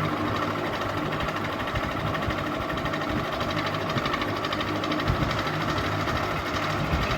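Ceiling fan running steadily: a constant motor hum with a fast, even flutter over it.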